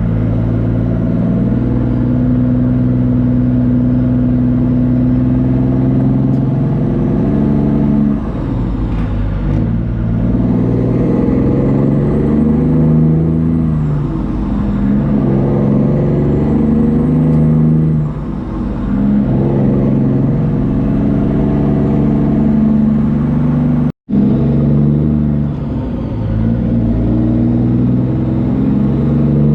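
Semi truck diesel engine pulling under load, its pitch holding for a few seconds and then dropping and rebuilding several times as it is shifted through the gears. The sound cuts out for a split second about 24 seconds in.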